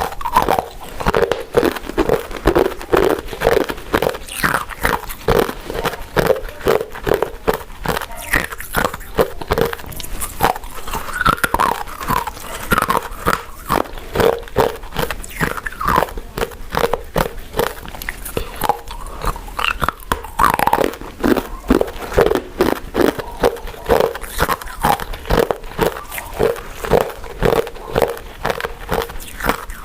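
Close-miked mouth eating sounds: chewing soft, chewy glutinous rice cakes and mochi, a dense, continuous run of wet clicks and smacks.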